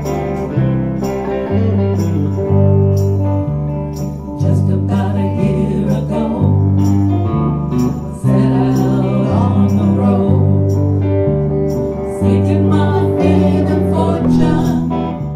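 Live band playing a guitar-led passage over a stepping bass line, with regular cymbal strokes; the music fades away near the end.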